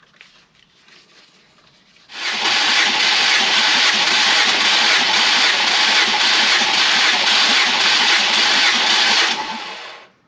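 Starter motor cranking the Mondeo ST220's 3.0 V6 engine, without it firing, for about eight seconds as one cylinder is compression-tested. Crank-only running like this is how the gauge gets a reading, here just over 200. It starts about two seconds in and stops shortly before the end.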